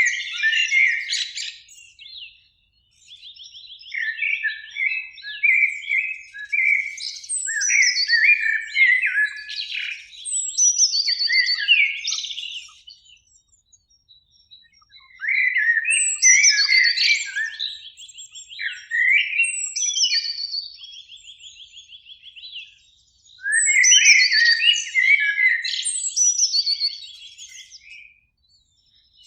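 Common blackbird song: a series of varied phrases of warbling and high twittering notes, separated by short pauses.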